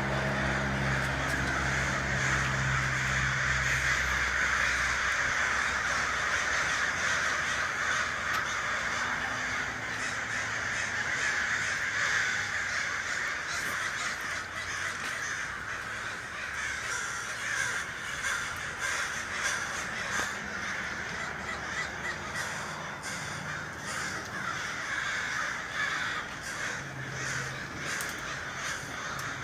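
A large flock of crows cawing, many calls overlapping into a continuous din that thins a little after the middle.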